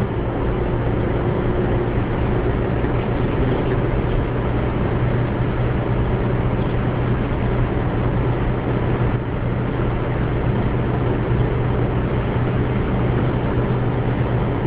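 Steady vehicle noise from inside a moving car: a low engine and road drone under an even rush of noise.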